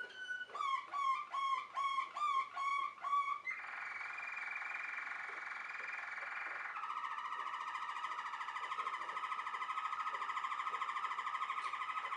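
Waterslager (Malinois) canary singing: a held note, then a run of repeated gliding whistled notes about three a second, then long rapid rolling trills, the first higher, a lower one taking over about seven seconds in.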